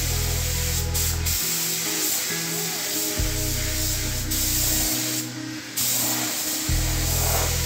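Compressed-air spray gun spraying clear coat: a steady hiss that breaks off briefly about five seconds in as the trigger is let go, then resumes.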